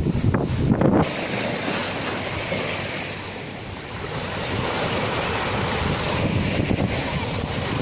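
Sea waves washing and breaking, with wind rumbling on the microphone; the surge is strongest in the first second, eases a few seconds in, then builds again.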